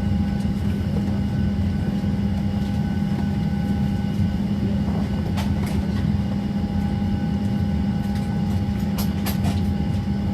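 Steady drone inside a Boeing 737-700 cabin, a low hum with a steady whine over it, with a few light clicks about halfway through and again near the end.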